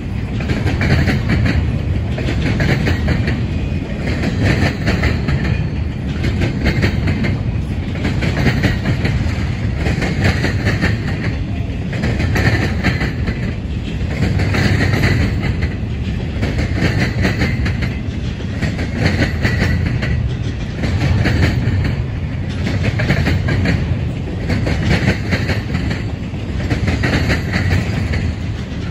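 Double-stack intermodal freight train rolling past: a steady loud rumble of steel wheels on rail with rapid wheel clicks, swelling and easing every two to three seconds as the cars go by.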